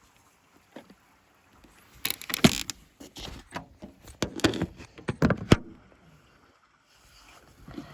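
A quick run of clicks, knocks and scrapes, like objects being handled, starting about two seconds in and stopping suddenly a few seconds later.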